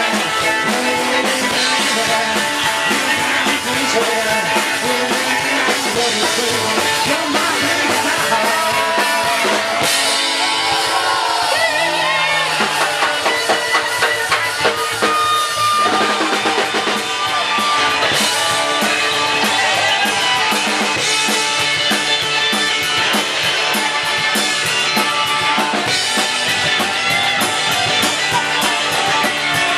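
Rock and roll band playing live with a drum kit, in a long instrumental passage. A lead line bends up and down in pitch over the steady beat.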